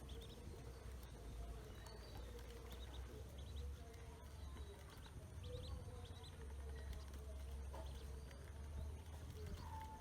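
Ducklings peeping: scattered short, high chirps over a steady low rumble.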